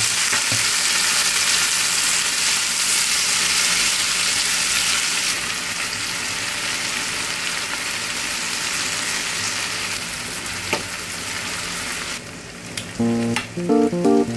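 Mackerel fillets sizzling in gochujang sauce in a parchment-lined frying pan: a steady hiss that eases a little about five seconds in, with a few light clicks.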